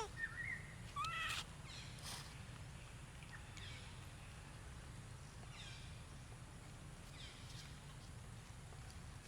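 Monkeys calling: a few short, high calls that bend in pitch in the first second and a half, then fainter calls every couple of seconds, over a steady low rumble.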